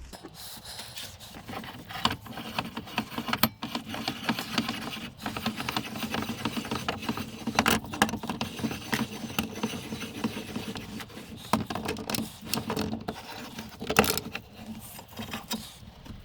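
Irregular clinks, knocks, scrapes and rubbing of hand tools and metal parts being handled during the take-apart of a hydraulic jack, with a few sharper knocks standing out.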